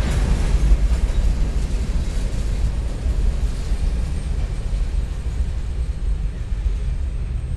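Freight train of covered hopper cars rolling by, a steady low rumble of wheels on rail that eases a little in the second half.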